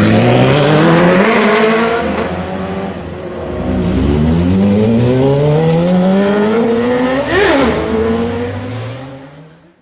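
Sport motorcycle engine accelerating hard: its pitch rises in a long pull, drops at a gear change about four seconds in, and climbs again before fading away near the end.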